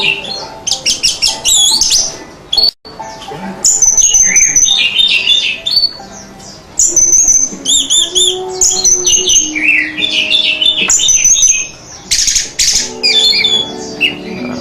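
Orange-headed thrush (anis merah) singing a fast, varied song of clear whistles and chattering phrases, broken by short pauses, with a run of quickly repeated notes near the middle.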